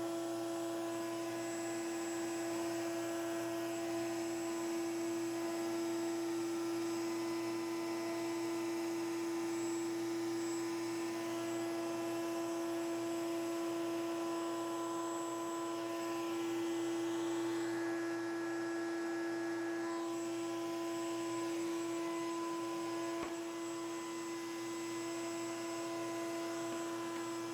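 Router motor running at speed in a router table, a steady whine with a faint hiss from the bit cutting wood that rises and falls slightly as the work is fed.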